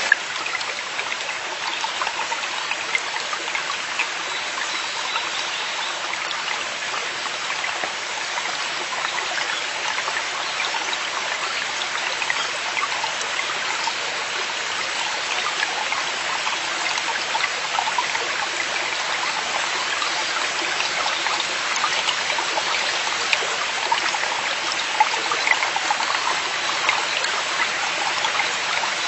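Mountain brook running steadily over rocks: a continuous rushing and babbling of water with small splashes and trickles throughout.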